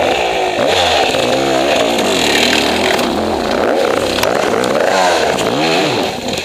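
Dirt bike engine revving up and down over and over, about once a second, as the bike is worked up a steep hill.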